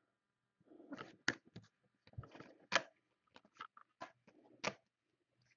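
Trading cards being handled: a scatter of soft clicks and short scraping rustles as cards slide over one another and are flipped.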